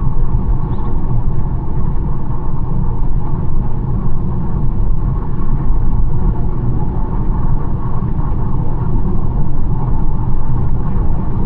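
BMW 1 Series driving steadily along a road: a constant deep rumble of engine and tyre noise, with no change in pace.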